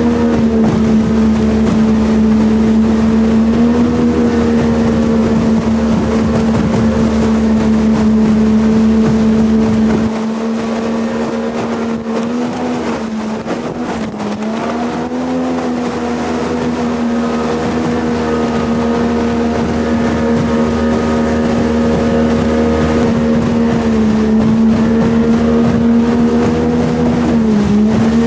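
Jet boat engine running at a steady cruising speed, its note wavering down and back up twice: once about halfway and once near the end.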